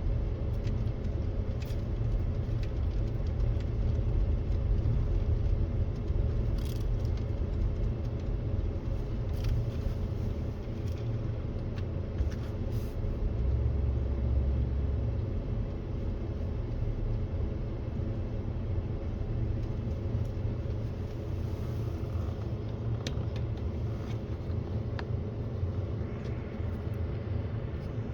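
Flatbed pickup truck driving slowly on a rough dirt track, its engine running steadily under a heavy low rumble, with a few scattered clicks and rattles.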